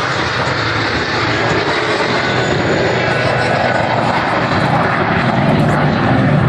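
Jet engines of F/A-18 Hornet fighters flying past: a loud, steady rushing noise that grows a little louder toward the end.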